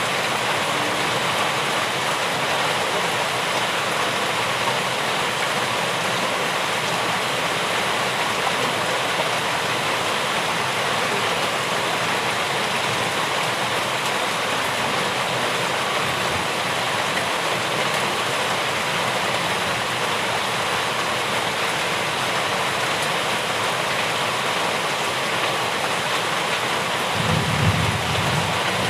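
Steady heavy rainfall, an even hiss of rain. A brief low rumble comes near the end.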